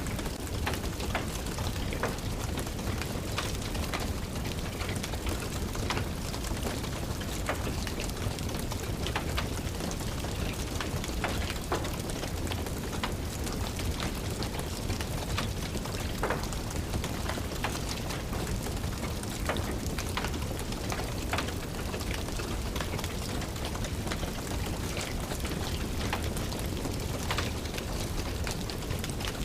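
Steady rain pattering, with scattered sharp crackles and pops from a wood fire burning in a fireplace.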